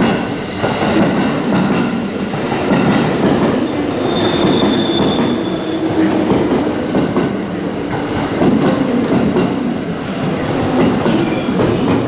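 Electric commuter train running along a station platform, wheels clattering and rumbling on the rails, with a brief high squeal about four seconds in.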